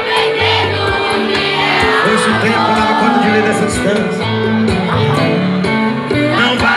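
Live sertanejo band music, loud and steady, with crowd voices shouting and singing over it.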